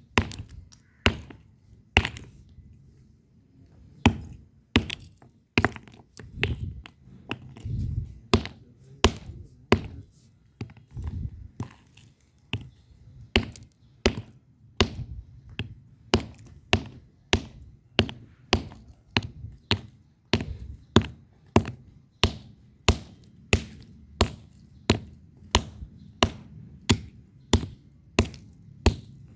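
Red bricks struck against each other over and over: sharp clacks at roughly one to two a second, with a pause of about two seconds shortly after the start, over a low steady hum.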